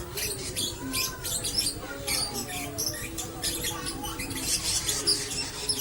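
Lovebird chattering in a long, continuous run of rapid, high-pitched squeaky chirps: the 'ngekek' chatter of a 'konslet' lovebird. Fainter, lower whistled notes rise and fall underneath.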